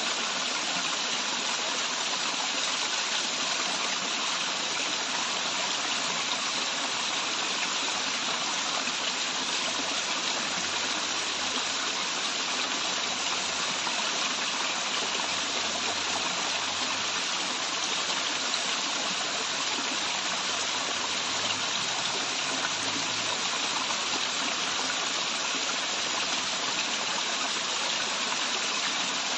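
Waterfall's running water making a steady, even rushing hiss with no breaks.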